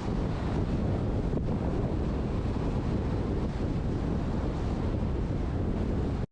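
Wind buffeting a roof-mounted action camera's microphone on a moving truck: a steady, deep rumbling rush of noise that cuts off suddenly at the very end.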